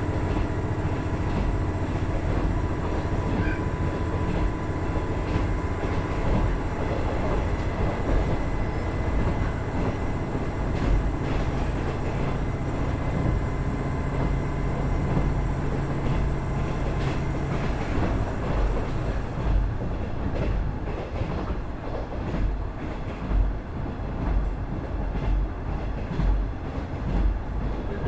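KiHa 110 series diesel railcar running, its Cummins DMF14HZA diesel engine droning steadily over wheel and rail rumble. About two-thirds of the way through, the engine note drops away, leaving uneven wheel-on-rail rumble and clicks.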